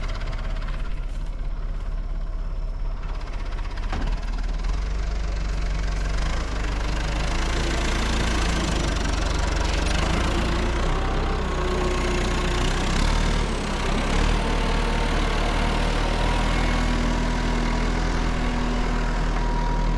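A backhoe's engine runs steadily, growing louder and fuller from about seven seconds in as the machine is worked.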